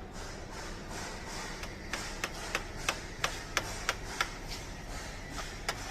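Sharp, evenly spaced clicks, about three a second, starting about two seconds in over a steady low workshop background, from tool work on a Mercedes-Benz Actros truck's gearbox removal.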